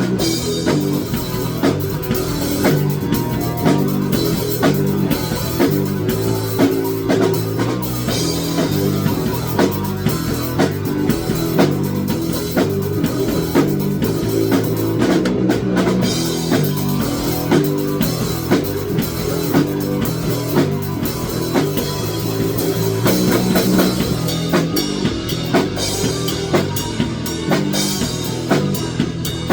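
Rock music with a drum kit and guitar, the drums keeping a steady beat.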